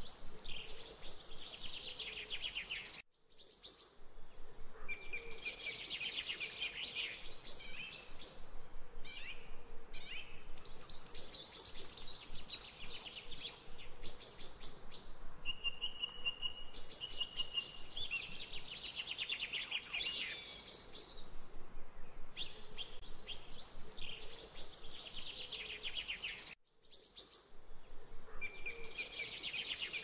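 Songbirds singing short phrases of rapid notes, repeated every few seconds over a faint steady hiss. The sound cuts out briefly twice, about three seconds in and near the end.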